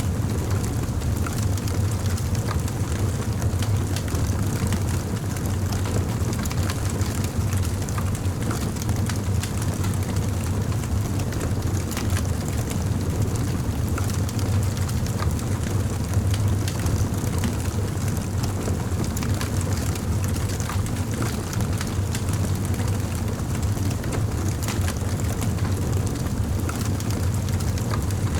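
Campfire burning with a steady low rumble and frequent sharp crackles and pops scattered throughout.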